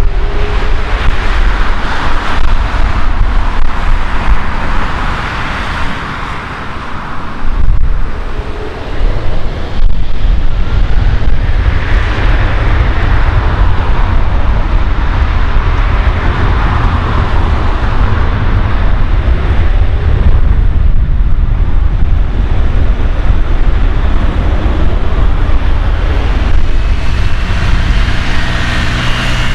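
Airbus A330 twin jet engines at takeoff power, a loud steady roar with a deep rumble, dipping briefly about seven seconds in; faint whining tones come through near the end.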